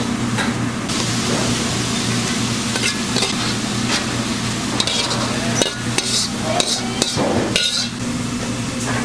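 Food sizzling as it is stir-fried in a metal pan, with a steady hum underneath. Sharp metal clanks and scrapes of utensils against the pan bunch together in the second half.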